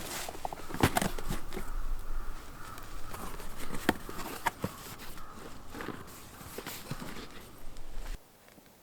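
Footsteps and rustling on the forest floor, with irregular sharp knocks and crunches. The sound stops abruptly near the end.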